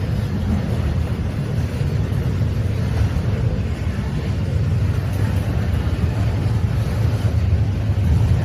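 Train passing at close range: a steady, heavy low rumble.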